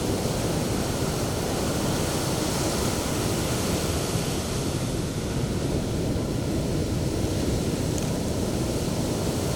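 Sea waves breaking on a beach: a steady, low rushing of surf and foam.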